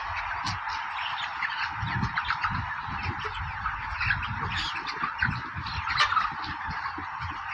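A flock of Ross broiler chickens calling all at once: a dense, continuous din of overlapping short calls with no single bird standing out.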